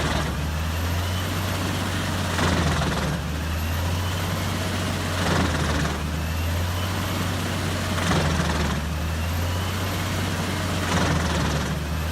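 Large mobile wood chipper at work: a steady heavy engine drone with surges of noise every couple of seconds as wood is fed through.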